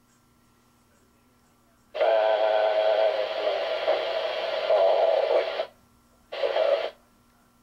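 Air-to-air radio channel keyed twice, with a narrow radio sound: one transmission of nearly four seconds starting about two seconds in, then a short one near the end, with no clear words.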